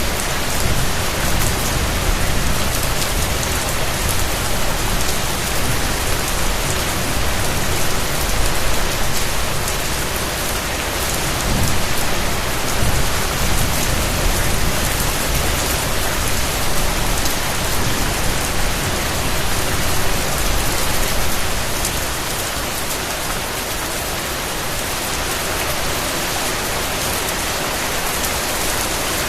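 Steady rain falling, an even hiss of many drops landing on a surface.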